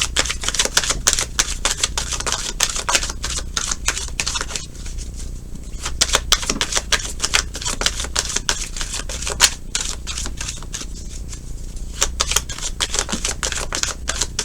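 Tarot cards being shuffled by hand: rapid runs of card-edge clicks and flaps, with two short lulls about five and eleven seconds in.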